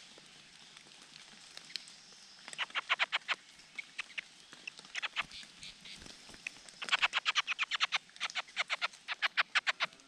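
Large niltavas at the nest giving fast series of short, sharp call notes, about ten a second, in bursts around three seconds in, five seconds in, and almost steadily from seven seconds to the end.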